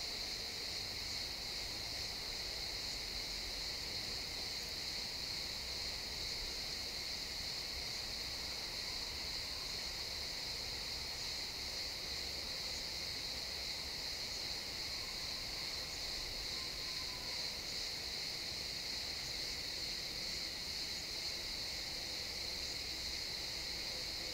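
Crickets chirping in a dense, continuous chorus, a steady high-pitched trill that does not let up.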